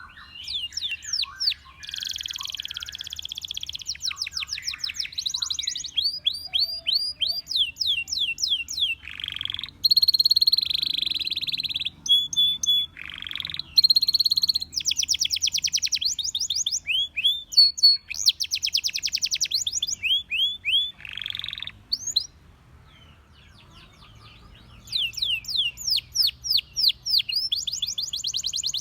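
Canary singing: long rolling trills of rapidly repeated high notes in phrases of a few seconds, changing from one trill type to the next, with a pause of about three seconds about three-quarters of the way in before the song starts again.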